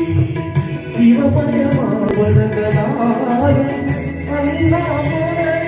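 Tamil devotional song to Shiva: a sung verse over sustained instrumental tones, with drums and a high percussion keeping a steady, even beat.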